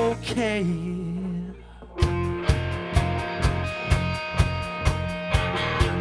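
Pop-rock band playing live: the music drops away to a single falling melodic line for a moment, then the full band comes back in about two seconds in, with guitar and drums hitting about twice a second.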